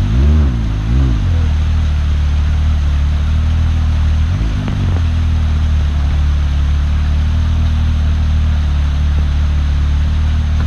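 Side-by-side UTV engine revving in a few quick rises and falls of throttle, with one more blip about four seconds in, then running steadily at held revs under load.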